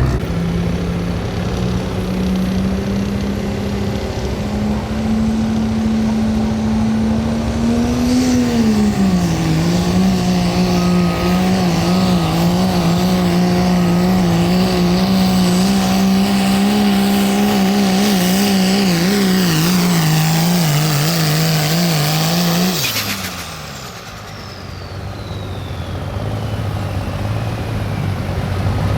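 Turbocharged diesel pickup pulling a sled under full throttle, its engine note held high and steady and then wavering. About 23 seconds in the driver lets off: the revs fall away, the turbo whistle winds down over a few seconds, and the engine settles to idle.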